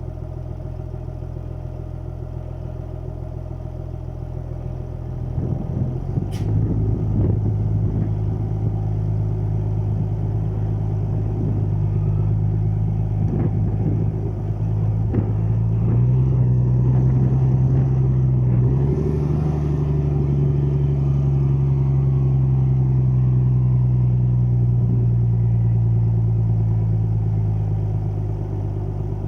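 Deutz-Fahr 6160 TTV tractor's diesel engine running, its speed rising about five seconds in and stepping up twice more past the middle, then easing back slightly near the end.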